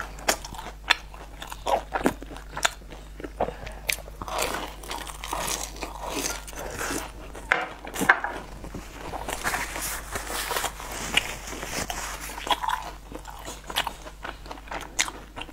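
Close-miked eating of a crisp fried snack: a run of sharp crunches as it is bitten and chewed, with wet mouth sounds between them.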